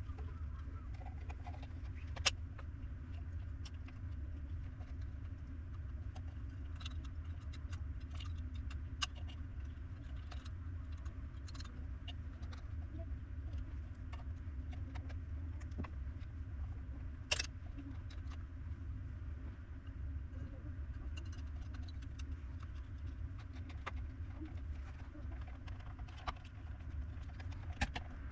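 Steady low hum with scattered light clicks and taps; two sharper clicks stand out, about two seconds in and about seventeen seconds in.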